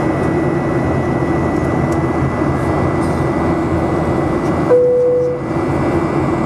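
Steady engine and airflow noise inside the cabin of a Boeing 737-800 in flight, with a faint high whine running under it. About 4.7 seconds in, a single short tone sounds for under a second.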